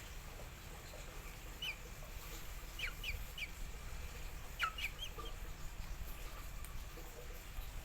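A bird calling in short, high chirps that slide downward in pitch, one alone and then in quick groups of two or three, over a low steady hum.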